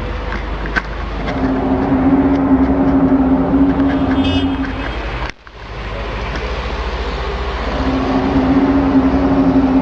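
A steady low droning tone held for about three seconds, sounding twice, over a continuous rumbling noise. It is one of the unexplained 'strange sounds' recorded outdoors, with an abrupt cut between the two tones.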